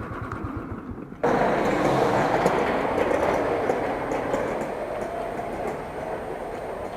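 A train running on rails: a steady rumble with scattered clicks that starts abruptly about a second in and slowly fades. Before it, an engine idles quietly.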